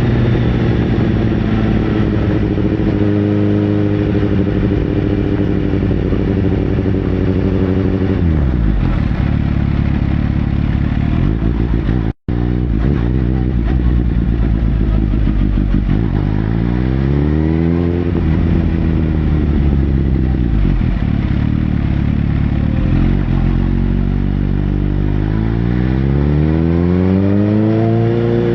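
Sportbike engine running at speed: it holds a steady pitch, then drops away about a third of the way in. After a brief cut it rises in pitch as it accelerates past halfway, falls back, and rises again near the end.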